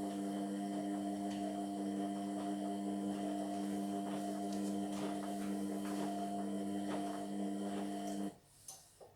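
Indesit MyTime washing machine humming steadily at a fixed pitch, with faint ticks over it, then cutting off abruptly about eight seconds in, followed by a couple of clicks.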